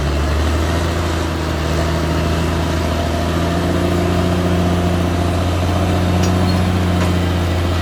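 Caterpillar D6R XL bulldozer's diesel engine running steadily with a deep hum, its tone shifting slightly about three seconds in.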